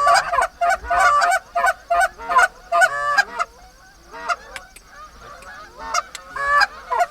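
Canada goose honks and clucks: many short calls overlapping in quick succession, easing off about four seconds in and picking up again near the end.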